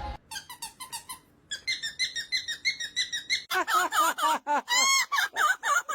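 Parrot making quick, evenly repeated high chirps, then, from about three and a half seconds in, a run of louder whistled calls that swoop up and down in pitch.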